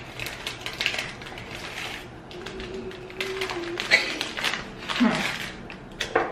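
Foil-lined snack wrapper crinkling and rustling as it is handled, a run of quick irregular crackles.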